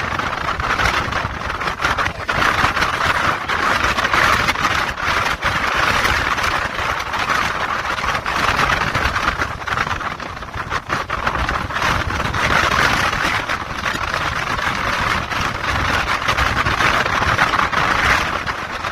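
Boat under way at sea: a steady motor mixed with rushing wind and water noise, with frequent small knocks throughout.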